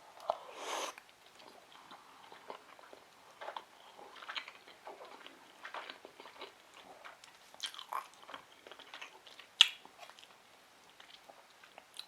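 Close-miked chewing of sushi rolls: irregular wet mouth clicks and smacks, with a short rustling burst at the start and one sharper click about ten seconds in.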